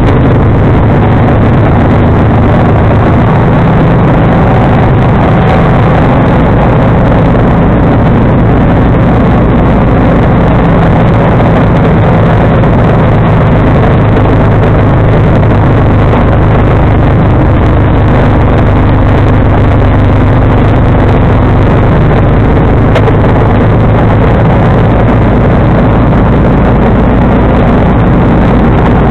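John Deere 445 garden tractor's engine running steadily and loudly while driving its 47-inch snowblower, with no change in pitch or level.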